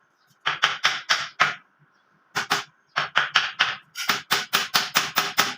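Hammer driving nails into a wooden cage frame. Sharp strikes start about half a second in, in short runs of two to five, then turn into a fast, even run of about six strikes a second near the end.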